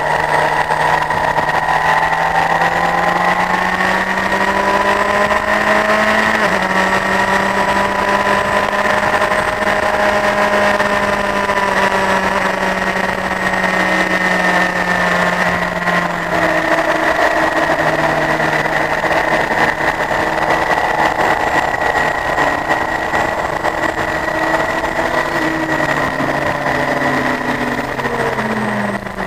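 Honda CBF1000's inline-four engine running under way, recorded on the bike. The note holds fairly steady, drops at a gear change about six seconds in, and falls away near the end as the bike slows.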